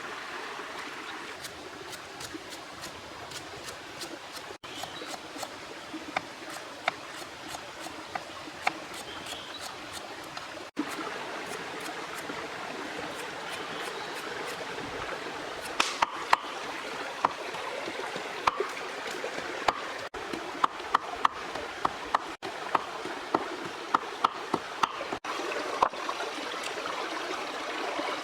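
Steady rush of river water running, with a scatter of sharp clicks on top that come more often in the second half.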